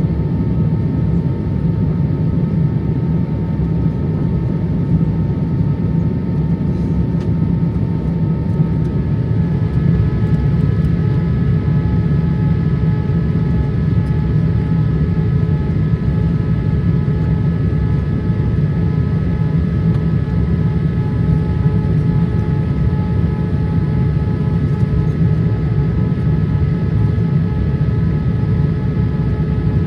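Steady cabin noise inside a Boeing 787-8 airliner in descent: a low rush of airflow and engine noise, with a few faint steady whining tones that shift slightly about nine seconds in.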